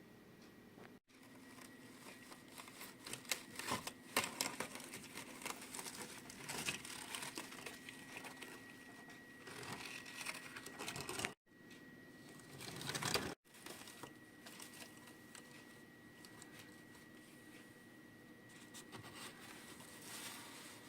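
Faint handling noise: rustling and many small irregular clicks and taps, like small toy models being moved about by hand, over a faint steady high whine. The sound cuts out completely for a moment about a second in, and twice more around the middle.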